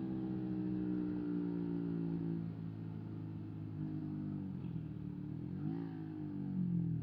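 125 cc single-cylinder motorcycle engine running on the road, its revs falling steadily as the bike slows for the first couple of seconds, then running lower, with a quick blip of the throttle about six seconds in and revs climbing again near the end.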